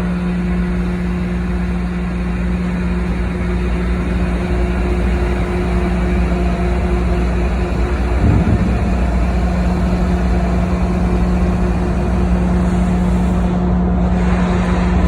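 A ferry's engine running steadily, with a constant low drone over a continuous rush of noise.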